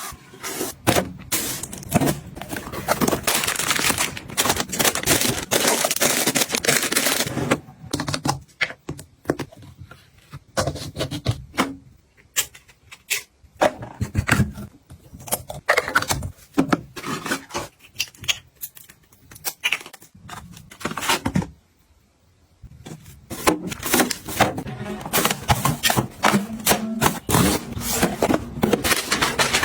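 Objects being handled, set down and arranged: a busy run of clicks, taps, scrapes and rustling, with two brief pauses.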